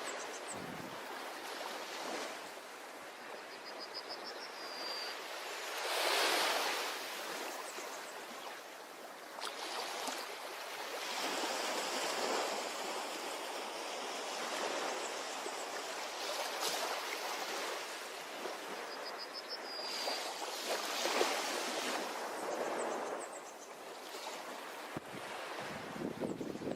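Ocean surf washing onto a beach, swelling and easing every several seconds. A short high trill sounds twice, a few seconds in and about twenty seconds in.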